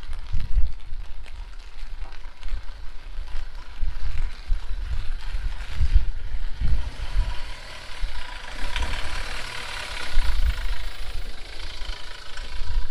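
Strong wind buffeting the microphone in gusts over falling rain, while a vehicle passes on the wet street, its hiss swelling and fading about two-thirds of the way through.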